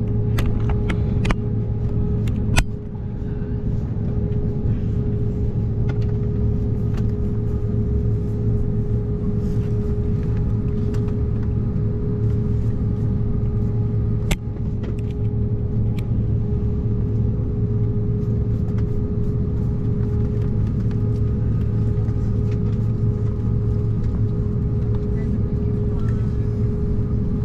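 Steady cabin noise inside an Embraer 190-E2 airliner: a constant low hum with a steady mid-pitched tone running through it. A few sharp clicks and knocks sound over it, the loudest about two and a half seconds in and another near the middle.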